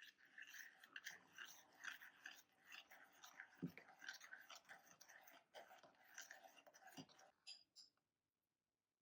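Snack packaging being handled, crinkling and rustling with many small crackles, with two soft thumps, as if set down, about a third of the way in and again near the end. The handling stops about 8 seconds in.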